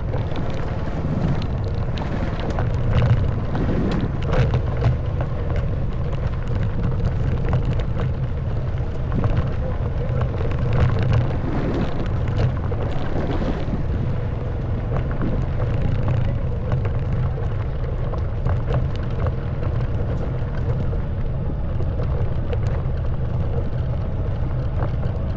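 Honda Wave 110cc single-cylinder four-stroke motorbike engine running at a steady pace, with wind buffeting the microphone. Many short clicks and knocks run through it from the bike riding over a rough stone and dirt road.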